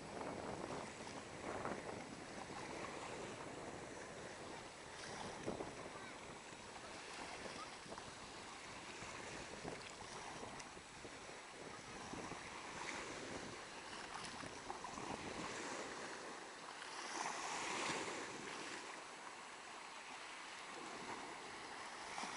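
Black Sea waves washing onto a sandy beach, a steady rushing that swells and ebbs, with one larger wash about three quarters of the way through.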